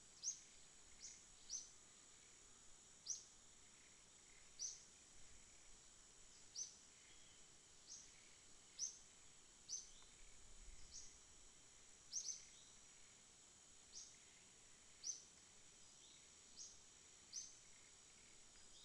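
Faint night chorus of insects: a steady high-pitched drone, with short, sharp, high chirps repeating unevenly about once a second.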